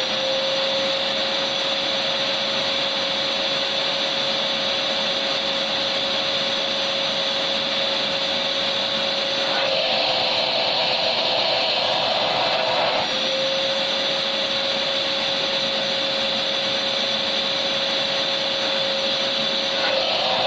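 Electric vacuum cleaner running steadily: a dense rushing of air over a steady motor whine. About ten seconds in, and again near the end, the whine drops out for a few seconds and the rush shifts in tone.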